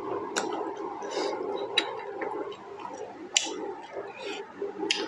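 Close-miked mouth sounds of eating juicy pork momos: wet chewing with sharp lip smacks about every second and a half, over a steady background hum.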